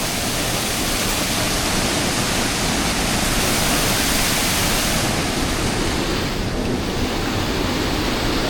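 Steady rushing noise of falling water from a waterfall, with the hiss softening slightly about five seconds in.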